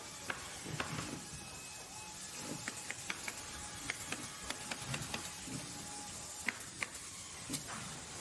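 Workshop machinery clattering: irregular sharp clicks and knocks, several a second, over a steady mechanical hiss.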